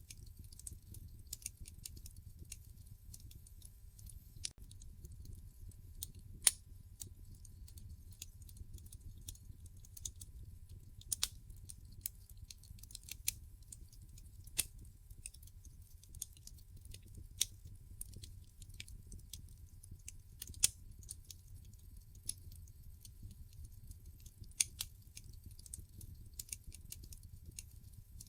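Wood fire burning in a fireplace: irregular crackles and sharp pops from the logs over a low steady rumble of the flames, with a few louder pops scattered through.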